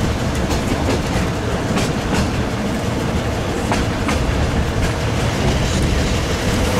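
Railway carriage running along the track, heard from inside the coach: a steady rumble with several separate clacks of the wheels over the rails.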